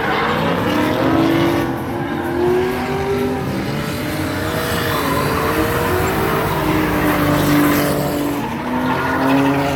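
Drift cars sliding past at high revs, engines bouncing up and down against the limiter, with tyres squealing continuously in the slide.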